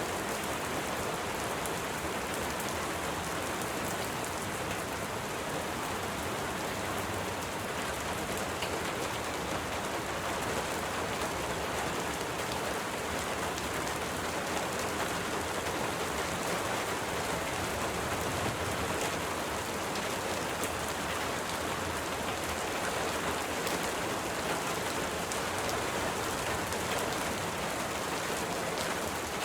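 Steady rain falling: an even hiss of rain with many fine, separate drop ticks, unchanging throughout.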